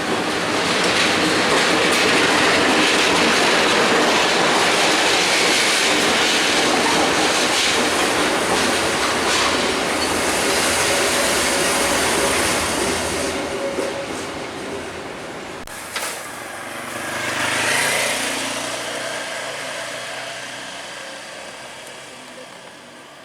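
Passenger or freight train passing at close range: the continuous rumble and clatter of wagons over the rails, loud for about twelve seconds and then fading away as the train moves off.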